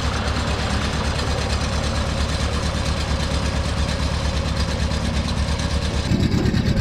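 John Deere 650 compact tractor's Yanmar diesel engine running steadily with an even, fast pulsing chug; the note shifts about six seconds in.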